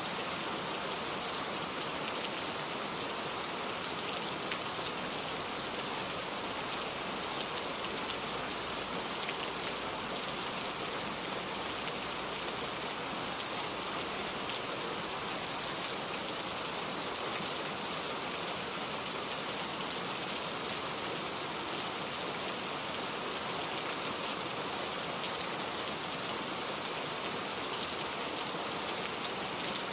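Steady rain falling: an even, unbroken hiss dotted with many fine drop ticks.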